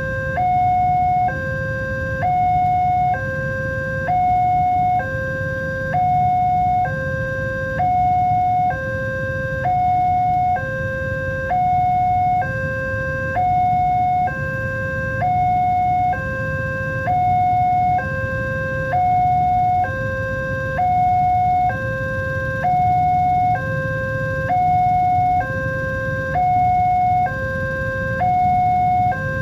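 Railway level crossing warning alarm sounding an electronic two-tone, alternating high and low about once a second, over a low rumble.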